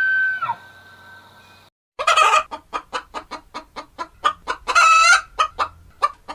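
A chicken clucking rapidly, about four short clucks a second, with one longer, higher squawk in the middle. It starts after a brief silence; before that, a long held tone glides down and stops about half a second in.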